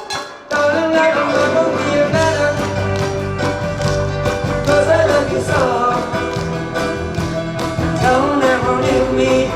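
Live band playing an oldies pop song, with a melody line over bass and a steady beat. The music drops out briefly about half a second in, then comes back in.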